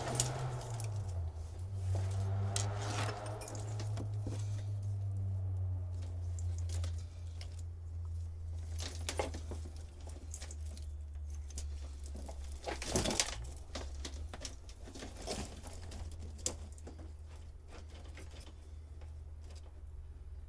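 Scattered rustles, clicks and light knocks of old boat wiring and cables being pulled out and handled, over a steady low hum. A louder clatter comes about thirteen seconds in.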